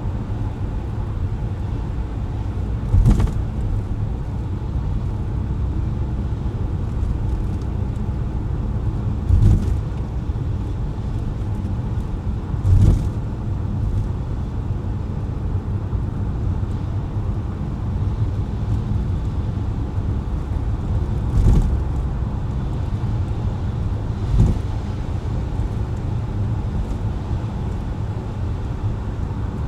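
Car driving on wet, slushy city streets: a steady low rumble of tyre and road noise, with five brief thumps spread through it.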